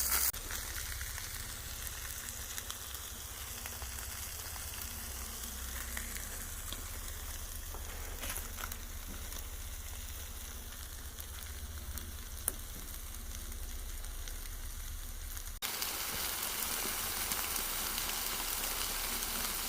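Whole chickens sizzling on a wire grill over a wood fire, a steady hiss of cooking with one sharp crackle about two-thirds of the way through. The hiss breaks off for an instant near the end and comes back a little louder.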